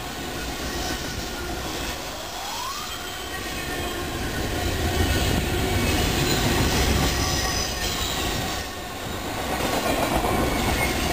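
Double-stack container freight train rolling past: a continuous rumble and clatter of steel wheels on the rails, with thin high wheel squeals, one of them rising in pitch about two seconds in.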